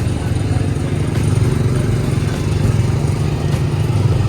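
Small gasoline engine of a go-kart-style ride car running steadily at low throttle, a low even drone, with the driver off the gas.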